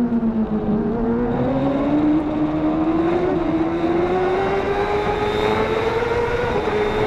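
Racing motorcycle engine running hard at high revs. Its pitch dips slightly in the first second, then climbs steadily as the bike accelerates.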